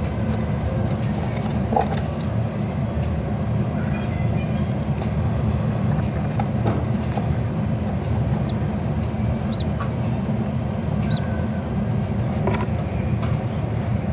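A steady low hum throughout, with a few light scratchy clicks in the first couple of seconds and three short, faint high chirps from a bird in the second half.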